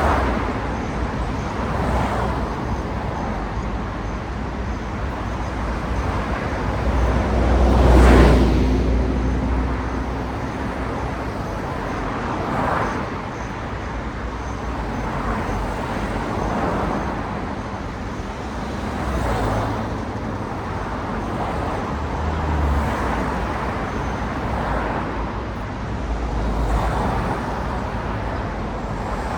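City road traffic: cars passing one after another, each a swelling whoosh of tyres and engine. The loudest pass comes about eight seconds in.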